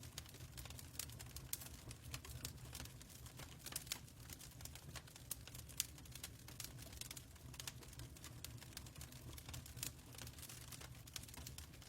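Wood fire crackling: a dense, irregular run of small pops and snaps, one sharper snap about six seconds in, over a low steady rumble.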